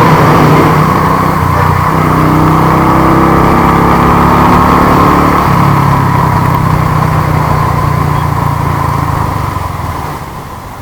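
Royal Enfield Thunderbird 350's single-cylinder engine running under way, with wind noise on the microphone. The engine note shifts about a second and a half in and again around five seconds later, and the sound falls away near the end.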